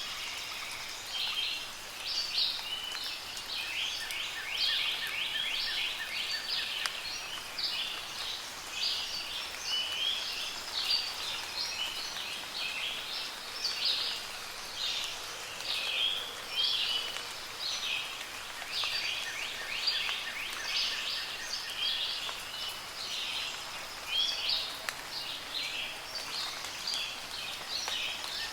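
Many songbirds chirping and singing at once in a dense, continuous chorus, over a soft even hiss of light rain.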